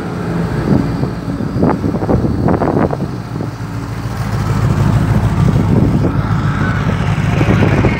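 Classic car's engine running with a low rumble as the car drives in, growing louder in the second half. A few short sharp sounds come through over it about two to three seconds in.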